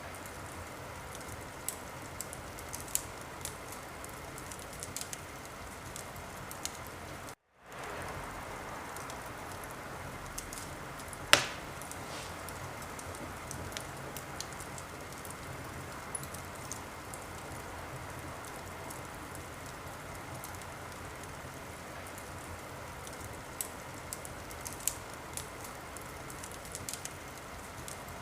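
Fireplace fire crackling: a steady hiss with scattered sharp crackles and pops, one much louder pop about eleven seconds in. The sound cuts out completely for a split second about seven seconds in.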